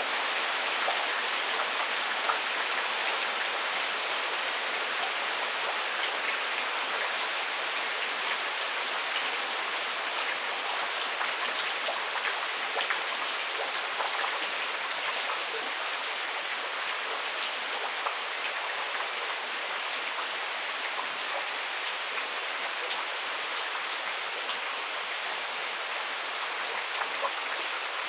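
Heavy rain falling steadily, with many scattered drops ticking on nearby surfaces.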